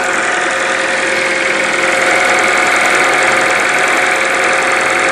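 K-swapped Honda CRX's four-cylinder engine idling steadily while it warms up to operating temperature.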